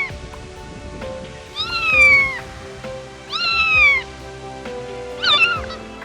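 Domestic cat meowing: two long meows, each falling in pitch, then a shorter wavering meow near the end, over background music.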